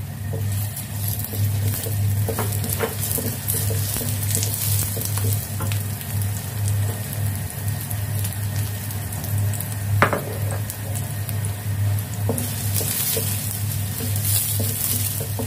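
Sliced shallots, garlic and ginger sizzling in hot oil in a stainless-steel wok, stirred with a wooden spatula that scrapes and taps against the metal. One sharper tap comes about ten seconds in, over a low steady hum.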